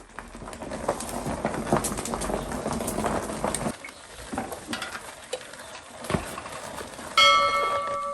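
Small metal parts and hand tools being handled: dense clattering and clicking for the first few seconds, then scattered clicks and knocks. About seven seconds in, a piece of metal is struck or set down and rings with a clear, slowly fading tone.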